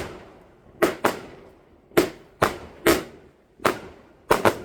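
Fireworks going off: a string of about ten sharp, irregularly spaced bangs, each with a short echoing tail, with three in quick succession near the end.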